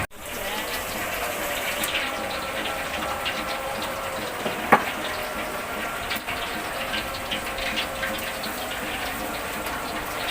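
Rain pouring down, an even rushing hiss of running and splashing water full of small spatters. One sharp knock stands out a little before the middle.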